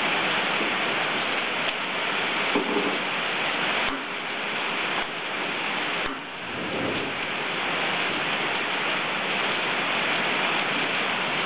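Steady sizzling of food frying in a wok over a gas burner, dipping briefly twice midway.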